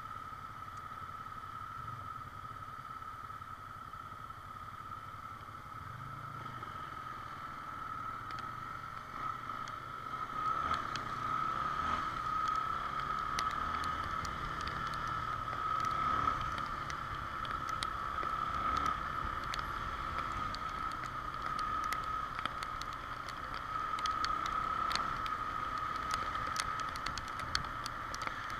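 XR Tornado trail motorcycle ridden in the rain: the engine runs low under a steady high tone. From about a third of the way in, many sharp ticks of raindrops hit the camera.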